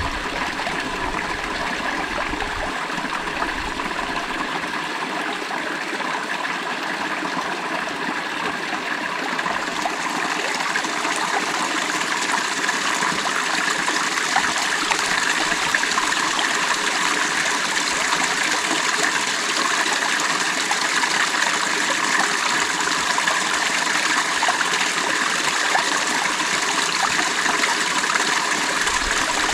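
Water of a stream flowing steadily, growing slightly louder about a third of the way in.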